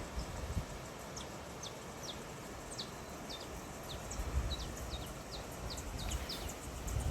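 Small songbirds chirping: a series of short, high notes that drop sharply in pitch, about two a second, over a steady outdoor hiss and low gusty rumble.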